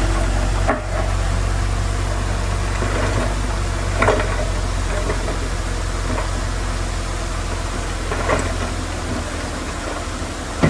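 Heavy diesel engine of an earthmoving machine running steadily with a low drone, with a few sharp metallic clanks at intervals of a few seconds.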